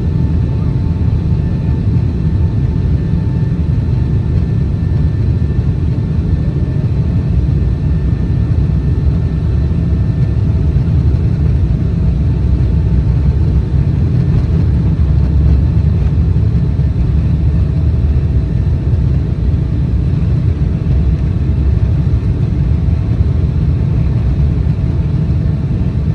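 Boeing 777-200ER's twin jet engines and airflow heard from inside the cabin during takeoff: a loud, steady deep rumble with faint whining tones above it.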